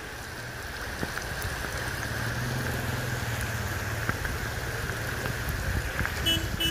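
Heavy rain pouring down on a flooded street, a steady hiss, with a car engine running low underneath through the middle. A short pitched tone sounds near the end.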